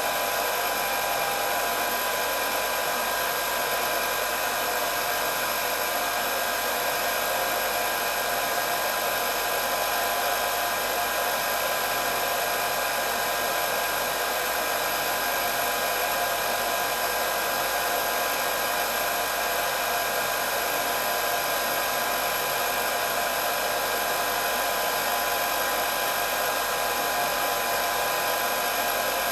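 Electric hair dryer running steadily: a constant rush of blown air with a high motor whine held on several steady tones.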